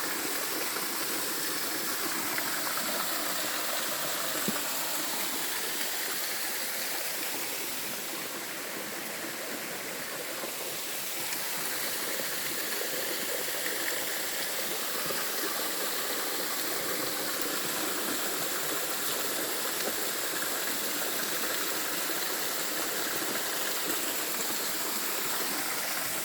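Small waterfall: steady rushing and splashing of falling water.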